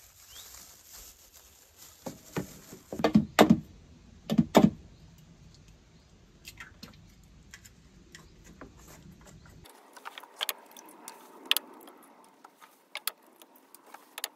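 Clinks and knocks of kitchen utensils and dishes as food is prepared: a few loud knocks a couple of seconds in, then lighter scattered clicks.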